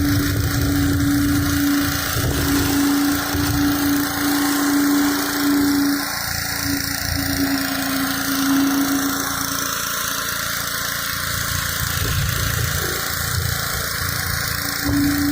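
Pressure washer's engine running at a steady pitch, with the hiss of the high-pressure water jet on concrete. The low rumble eases off for a few seconds in the middle.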